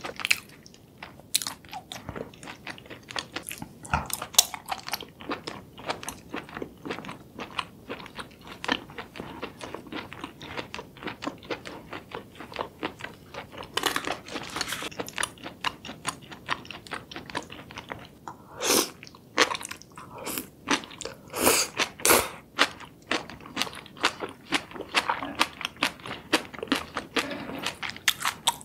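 Close-miked eating of spicy seafood in sauce: a steady run of wet chewing, biting and mouth smacks. A cluster of louder, sharper bursts comes about two-thirds of the way through.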